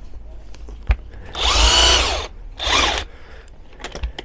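Power tool spinning the top nut off a car's rear shock absorber in two bursts, a long one of about a second and then a shorter one.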